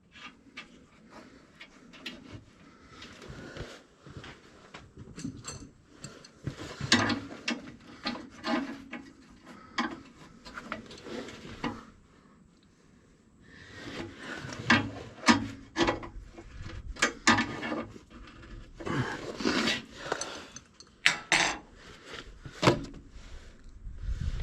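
Metal hardware and hand tools being handled while a switch is bolted in: irregular clicks, scrapes and rattles, pausing briefly about halfway.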